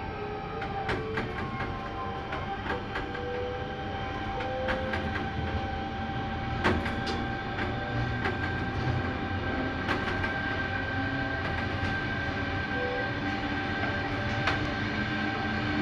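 V set electric multiple unit running, heard from inside the driving cab: a steady rumble with a held whine and scattered sharp clicks from the wheels on the track.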